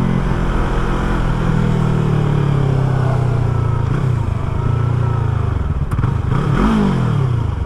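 Yamaha R3 motorcycle's parallel-twin engine running steadily under way, with wind noise. Near the end the engine note briefly rises and falls.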